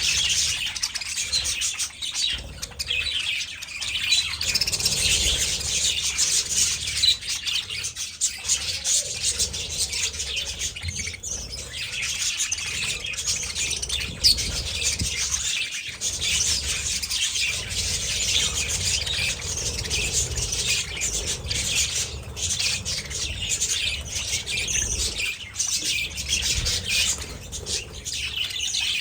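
A colony of budgerigars chirping and chattering all at once, a dense, unbroken chorus of many birds over a low rumble.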